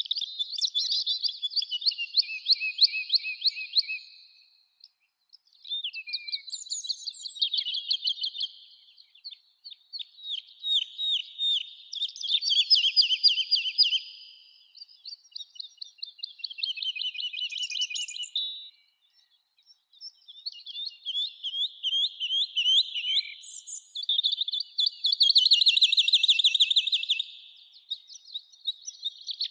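Songbirds singing: about seven phrases of rapid trilled, chirping notes, each lasting a few seconds, with short pauses between them.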